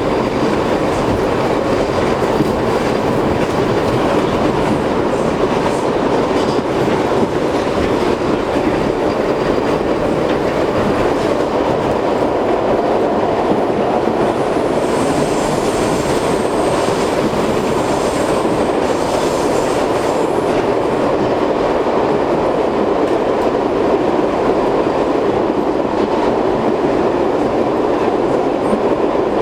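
R62 subway train running steadily between stations, with a loud, even rumble of wheels on rail and a clickety-clack of the rail joints. About halfway through, a thin high squeal joins for several seconds.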